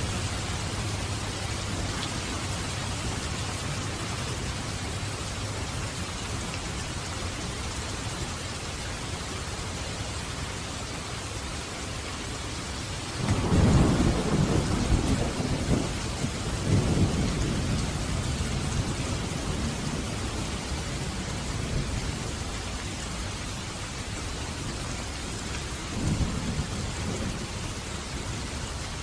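Steady heavy rain with thunder: a loud rolling rumble breaks out about halfway through and grumbles on for several seconds, with a shorter rumble near the end.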